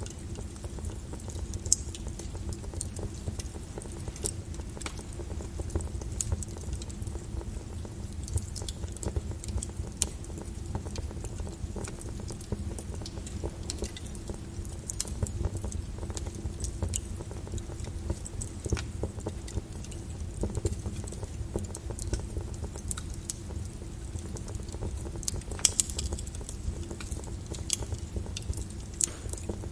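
Wood fire crackling with scattered sharp pops over a steady low rumble, layered with rain.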